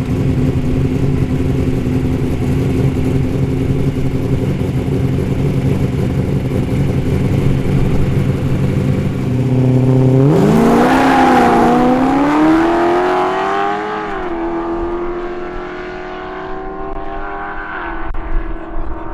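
Modified Ford Falcon XY GT and Holden Torana muscle cars sit with their engines running steadily at the drag-strip start line. About ten seconds in they launch, and the engine note climbs sharply in pitch. It dips at a gear change a few seconds later, then rises again and fades as the cars pull away down the strip.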